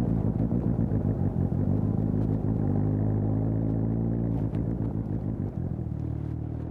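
2020 Suzuki GSX-S750's inline-four engine, fitted with an aftermarket Storm exhaust, running steadily on the move. About four and a half seconds in it drops in pitch and level, settling to a lower, steadier note near the end.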